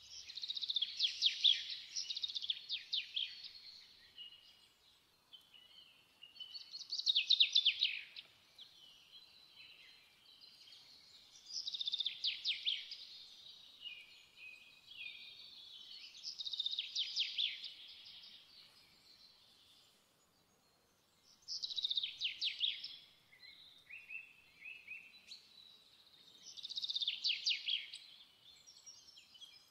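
A songbird singing: short phrases of rapid trilled notes, high in pitch, about every five seconds, with softer chirps between them.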